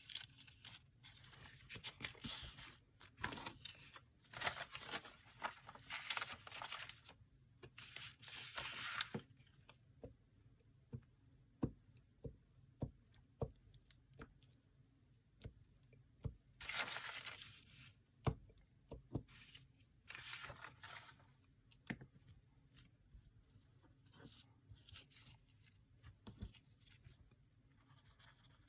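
Paper being handled, rustled and torn in short bursts, several over the first nine seconds and twice more later, with light taps and clicks of tools and paper on the table between them.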